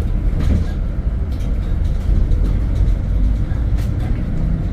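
Steady low rumble of engine and road noise from a vehicle being driven, with a few faint ticks.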